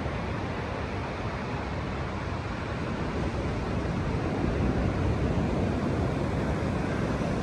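Steady rush of ocean surf on a beach mixed with wind on the microphone, swelling a little about four seconds in.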